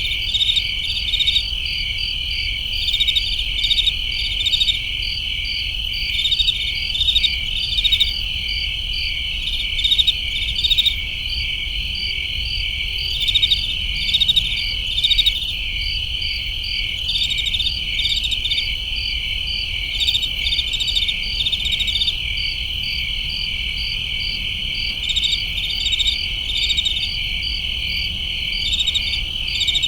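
Crickets chirping: a dense, steady high trill with louder pulsed chirps rising over it in short clusters every second or two.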